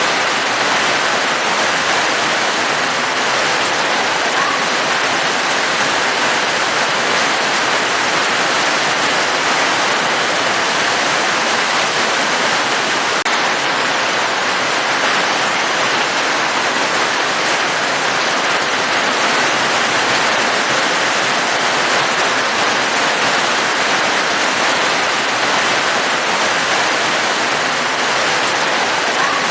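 Steady heavy rain: an even, unbroken hiss of falling water with no single drops or rumbles standing out.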